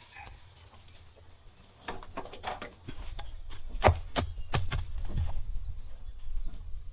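A run of sharp, irregular knocks over a low rumble, starting about two seconds in and getting louder from about three seconds in.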